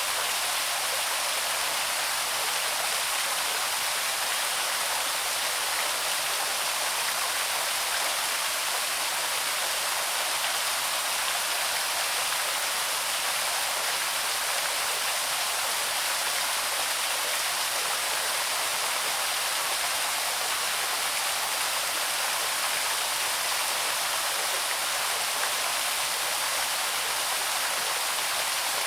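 Small waterfall pouring steadily into a stream, an even rushing hiss with no pauses or changes.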